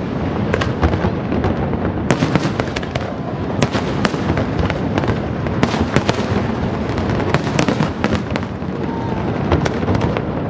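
Aerial fireworks display: a dense, continuous run of bangs and crackling shell bursts over a steady rumble.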